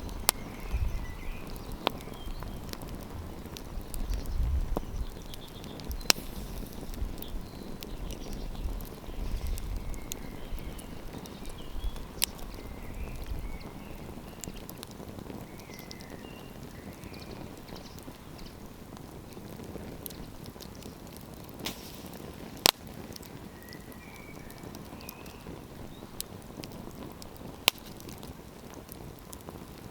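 Wood campfire burning, hissing steadily with sharp crackles and pops every few seconds. A low rumble in the first half dies away about halfway through.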